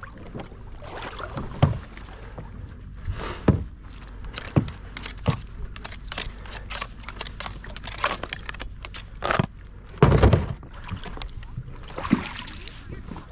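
Knocks and clatter of people moving and handling gear in a duck boat, over a steady low rush of wind and water. The knocks come singly at first, a flurry of small clicks follows, and a heavier jumble of bangs lasts about half a second near the end.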